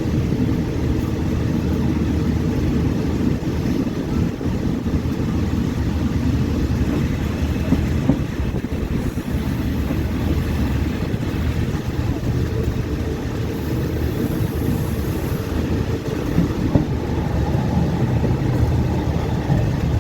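Steady rumble of a passenger train running along the track, heard from on board, with a few small knocks from the wheels and carriage.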